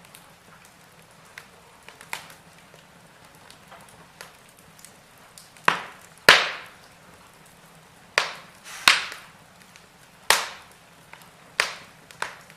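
Wood fire burning in a fireplace: faint crackling with small ticks, then a run of about seven sharp, loud pops in the second half.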